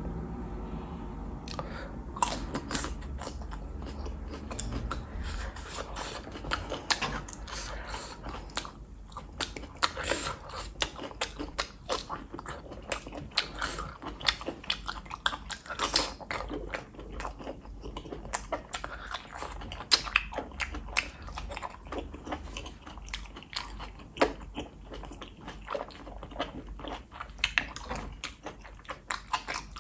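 Mouth sounds of a person eating enoki and oyster mushrooms in a thick sauce: steady wet chewing and biting, with many sharp, irregular clicks.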